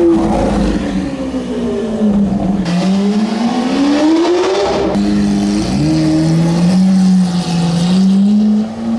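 Lamborghini Aventador LP700-4's V12 engine, loud and revving: its pitch falls over the first few seconds, then climbs. After a sudden break about five seconds in it runs steadier, rising again near the end.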